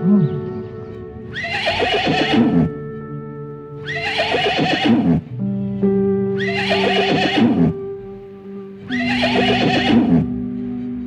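A horse whinnying four times, about two and a half seconds apart, each call a long neigh falling in pitch. Background music of held notes plays underneath.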